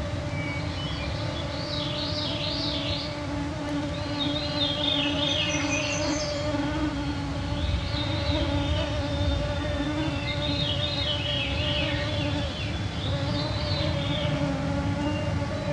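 A cloud of mosquitoes whining close around the microphones in a steady hum, with songbirds singing repeated rippling phrases over it every few seconds.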